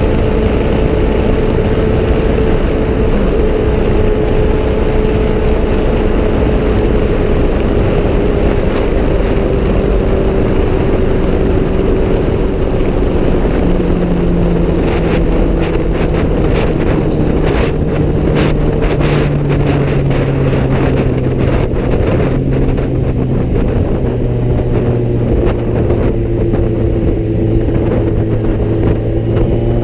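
Kawasaki Z1000 inline-four engine running at road speed under steady wind noise on the microphone. Its note falls slowly as the bike eases off, then rises again near the end as the revs climb.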